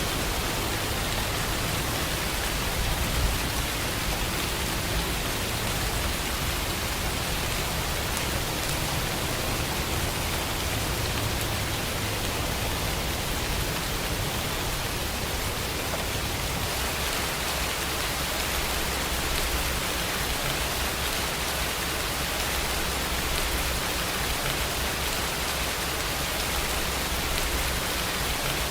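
Steady, dense rainfall, an even hiss without distinct drops or thunder. About two-thirds of the way through, its tone shifts slightly brighter and thinner.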